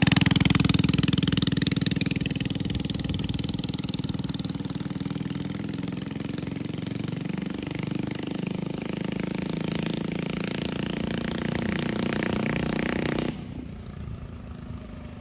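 Coleman CT100 mini bike's 100 cc engine running hard through a loud aftermarket exhaust. It is loudest at first and fades slowly as the bike pulls away, then drops off abruptly near the end.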